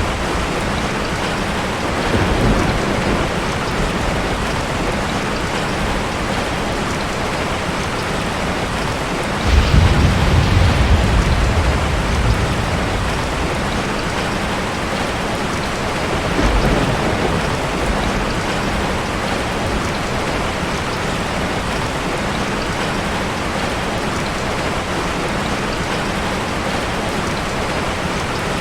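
Steady, even rain with low rumbles of thunder swelling in and out. The strongest rumble comes about ten seconds in and lasts a couple of seconds, with weaker ones before and after it.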